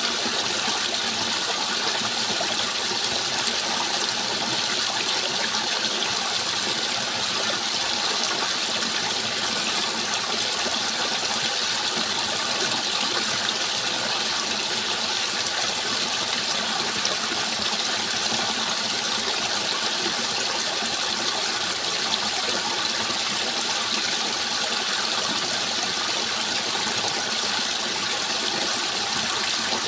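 Steady rushing of flowing water, an even hiss with no change through the whole stretch.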